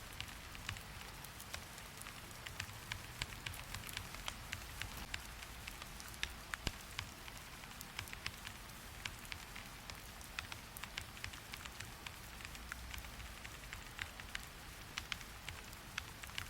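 Steady rain, a constant hiss with many irregular sharp taps of drops scattered through it.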